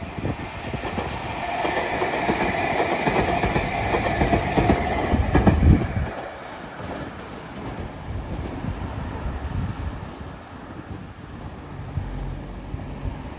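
Tobu 500 series electric train passing on the line, wheels rumbling and clacking over the rails with a steady whine on top. It is loudest for the first six seconds, then drops suddenly to a quieter rumble as the train moves away.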